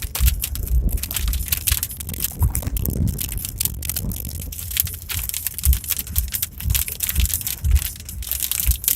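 A car jolting along a rough unpaved road: a continuous crackling, rattling noise with irregular low thumps.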